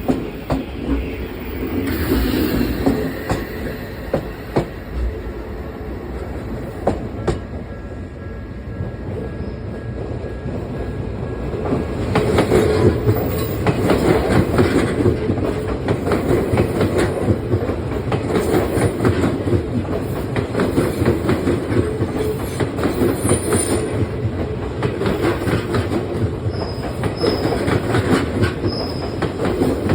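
Odakyu Line electric train running past a level crossing, its wheels clattering over the rail joints. It grows louder about twelve seconds in, with brief high wheel squeals near the end.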